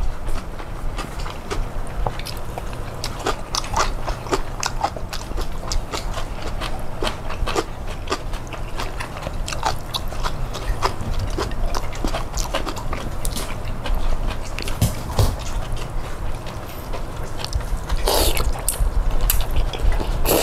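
Dog chewing and gnawing on food, a steady run of small crunches and clicks with a louder stretch of tearing near the end.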